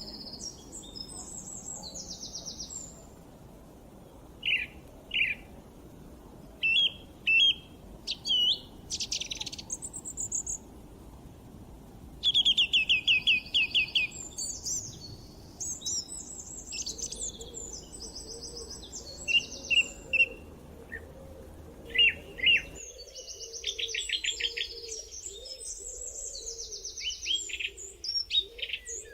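Several songbirds singing and chirping, with calls overlapping and a quick run of repeated notes about twelve seconds in. A faint low background hiss under the birds stops abruptly about three-quarters of the way through.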